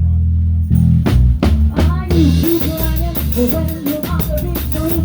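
Live rock band playing: bass guitar holding long low notes with a few sharp hits, then drums with cymbals and bending electric guitar lines coming in about two seconds in.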